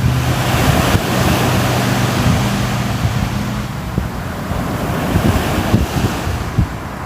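Sea surf: waves breaking and washing in a continuous rush that swells and eases, with wind buffeting the microphone. A low steady drone sits underneath for the first half or so.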